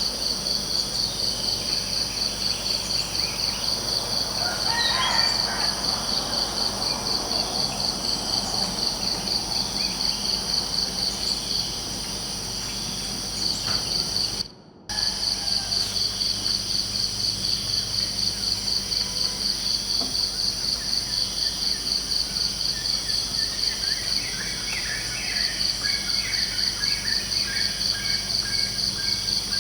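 Crickets chirping in a steady, rapid pulsing trill, with a few bird calls around five seconds in and again near the end. The sound drops out abruptly for a moment about halfway through.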